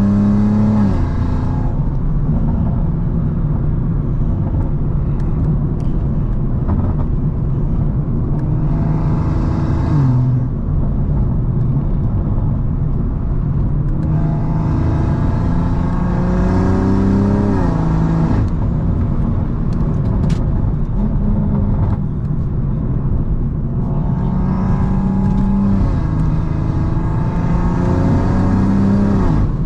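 Heavily modified BMW M340i's turbocharged B58 straight-six, tuned to about 700 wheel horsepower, pulling hard several times. Each pull rises in pitch and then drops off, with a rushing hiss that comes in as the revs climb.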